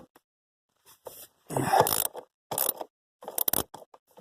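Hand tools scraping and knocking against metal while working at the blower motor bolts: a longer scrape about one and a half seconds in, then shorter scrapes and a few sharp clicks.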